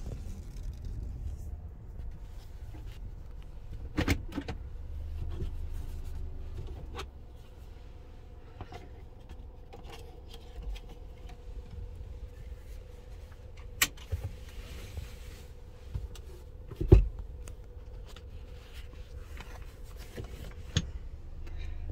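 Car running, heard from inside the cabin: a steady low rumble with a faint constant hum, broken by a few sharp clicks and knocks, the loudest a thump about 17 seconds in.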